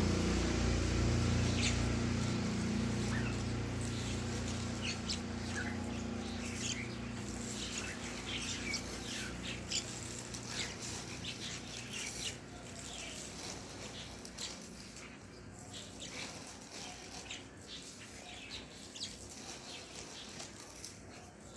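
A pet bird chirping in many short, sharp notes, over a low rumble that fades out over the first few seconds.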